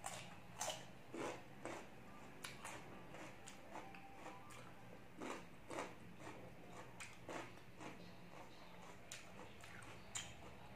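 Mouth chewing crunchy raw vegetables: irregular crisp crunches and wet chewing clicks, several of the louder ones in the first couple of seconds, over a faint steady low hum.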